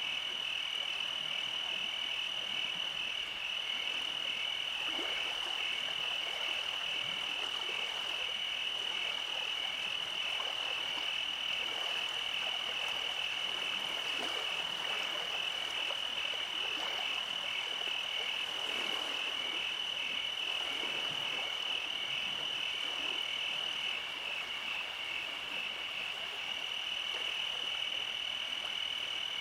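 Night chorus of frogs and insects: a continuous high, rapidly pulsing trill with softer scattered croaks beneath it.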